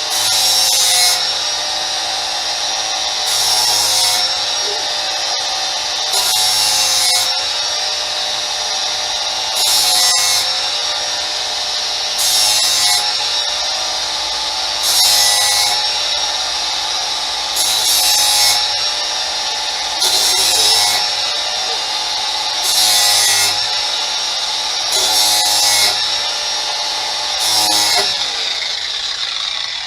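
Electric grinder running with a steady high whine, sharpening a steel lawn mower blade. A harsher rasp surges every two to three seconds as the wheel is worked along the cutting edge.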